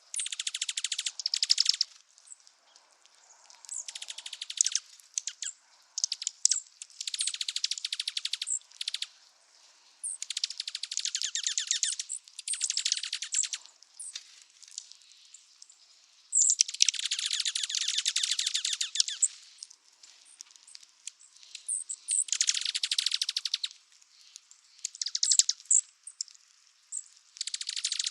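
Douglas's squirrel giving its high, rattling chatter call, about nine rapid trilled bursts of one to three seconds each, a few seconds apart; the longest comes a little past halfway.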